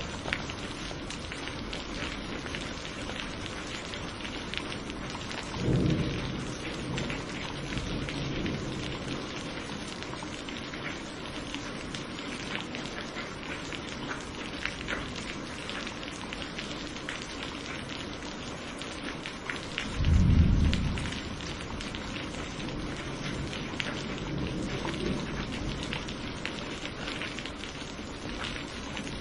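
Steady thunderstorm rain with individual drops pattering. Thunder rumbles twice, about six seconds in and again, louder, about twenty seconds in.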